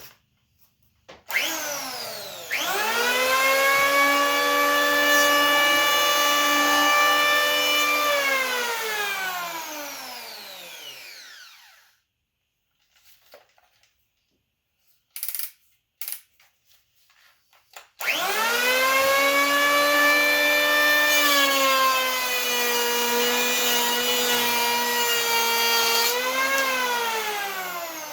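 WEN 3-1/4-inch electric hand planer planing wood: the motor spins up with a rising whine, runs steadily for about five seconds, then winds down. After a pause of a few seconds with a few light knocks, it spins up again and runs for about eight seconds, with a brief rise in pitch before it winds down near the end.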